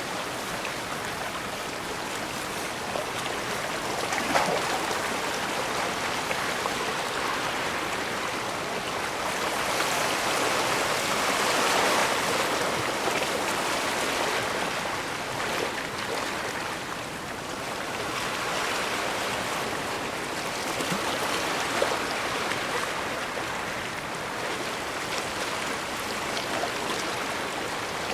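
Steady rushing and washing of seawater at the edge of a bay, with a few small splashes; the wash swells louder around the middle.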